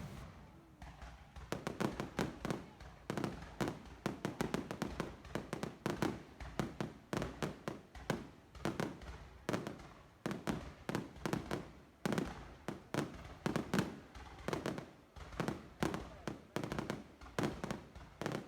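Fireworks going off in dense, irregular volleys of sharp bangs, several a second, after a single loud bang at the start.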